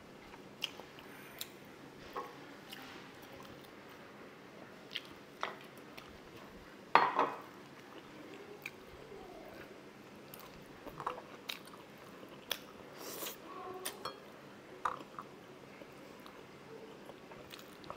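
Close-miked chewing and biting of sausage and rice, with soft wet mouth clicks scattered throughout. There is one much louder thump about seven seconds in.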